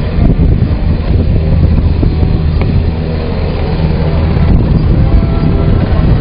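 UH-60J Black Hawk helicopter running loud and steady on the ground, its rotor and twin turboshaft engines giving a strong low drone.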